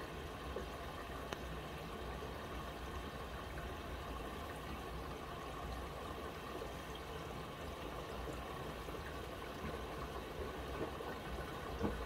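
Miele W1 WCR 890 WPS washing machine filling with water early in the wash, a steady rush of water flowing into the drum.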